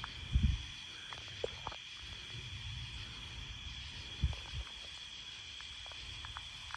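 Night insects chirping in a steady high chorus, with a few short, dull low thumps, one about half a second in and two a little after four seconds in.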